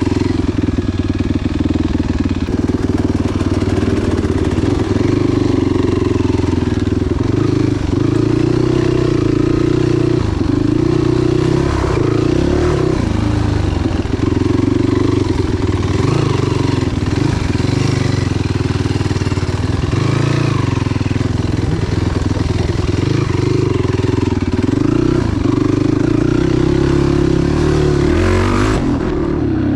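Enduro motorcycle engine running under load on an off-road trail, the revs rising and falling every few seconds as the rider works the throttle, with a quick rev sweep near the end.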